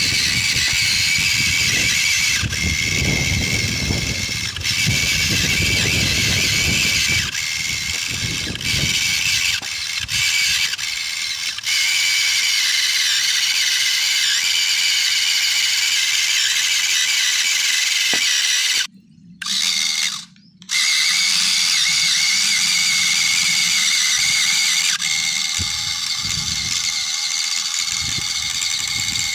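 Remote-control toy tractor's small electric motor and gearbox whining at a steady high pitch, cutting out briefly twice about two-thirds of the way through. A low rough noise runs underneath in the first third.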